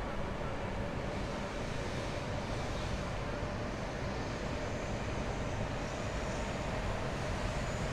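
Steady city street noise: a continuous hum of traffic with a faint steady whine running through it.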